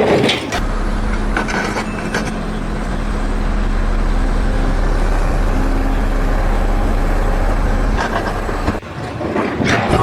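A heavy vehicle or machine engine running steadily with a low, even hum, which breaks off briefly near the end.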